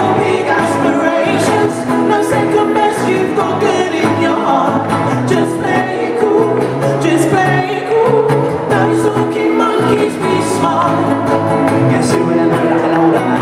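Live pop song with sung vocals over a band accompaniment, playing steadily throughout.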